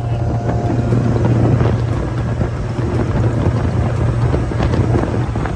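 Motorboat engine running steadily at speed, a constant low drone, with wind buffeting the microphone and water rushing past the hull.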